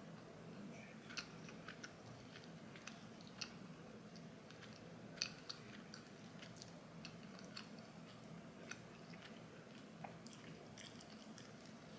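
A person chewing fried chicken, faintly, with soft irregular mouth clicks and smacks over a low steady hum.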